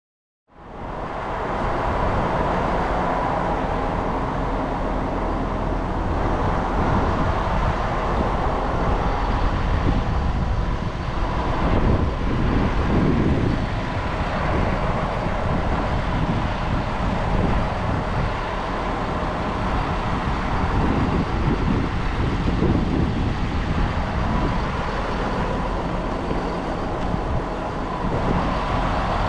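Steady running noise of a Moka Railway diesel railcar heard from inside, a constant rumble with a faint steady hum.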